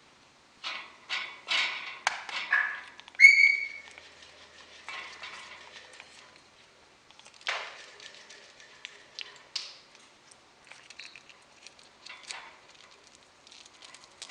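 A pet bird chattering in short scratchy calls, with one loud clear whistle about three seconds in.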